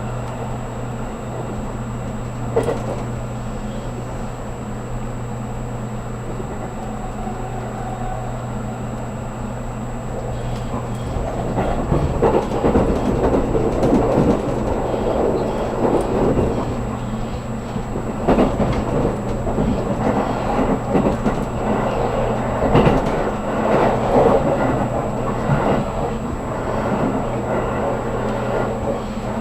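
Inside a 783 series electric train car running on the line: a steady hum under the rumble of wheels on track, which grows louder about ten seconds in, with scattered knocks.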